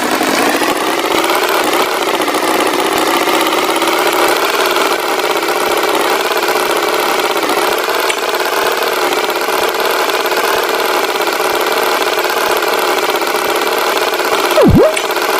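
Tractor engine sound effect running steadily at an even pitch. Near the end comes a brief swooping effect that drops sharply in pitch and springs back up.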